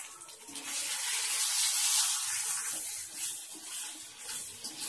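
Spiced quail pieces sizzling in hot oil in a black kadai as they are stirred with a perforated steel spoon. The hiss swells about half a second in, is loudest around two seconds, then eases.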